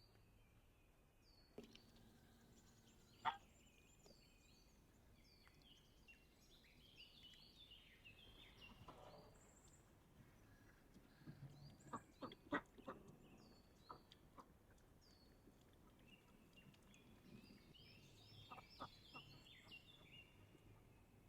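Birds chirping quietly, many short, high, falling chirps repeated rapidly through the whole stretch. Scattered sharp clicks and knocks sound over them: a loud single one about three seconds in and a cluster about twelve seconds in.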